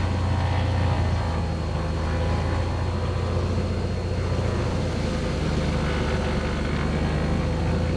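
Cessna 182's single piston engine and propeller droning steadily in the cabin, a constant low hum with no change in pitch.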